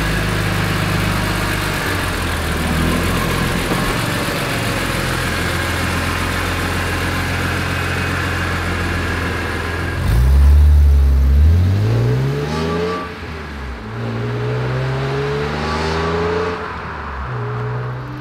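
BMW E46 M3's straight-six engine driving: a steady drone for the first half, then, about ten seconds in, a loud acceleration with its pitch rising. It drops at a gear change and rises twice more.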